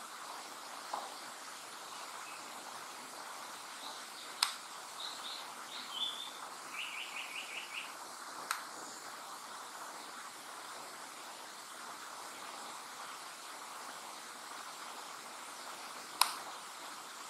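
Japanese paradise flycatcher singing about four seconds in: a few short high notes, then a quick run of about six repeated lower notes. Three sharp clicks, the loudest sounds, stand out over a steady background hiss.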